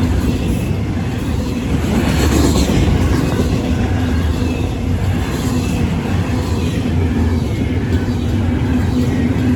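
Union Pacific intermodal stack train passing a crossing at speed: a steady, loud rumble.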